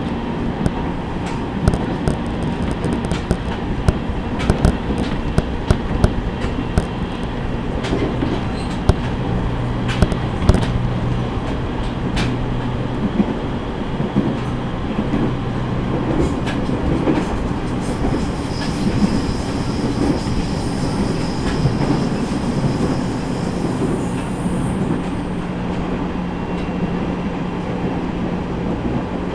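Running sound inside a JR East E501 series electric train at speed: the wheels click sharply over rail joints, thickest in the first half, over a steady low hum from the running gear.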